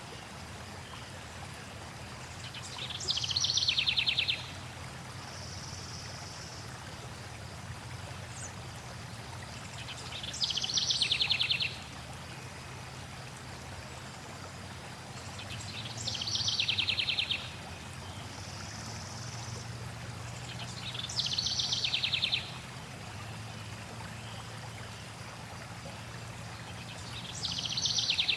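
A songbird repeating the same short song phrase about every six seconds, five times: a high note sliding down into a fast trill, each phrase about a second and a half long. Between phrases, a second bird gives a brief high whistle twice, over the steady rush of flowing water.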